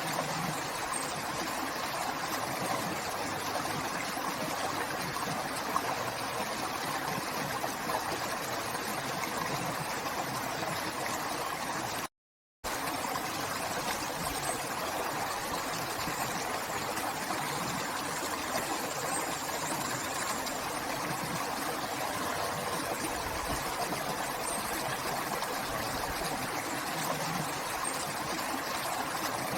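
River water flowing steadily as an even rushing and gurgling. It cuts out completely for about half a second, roughly twelve seconds in.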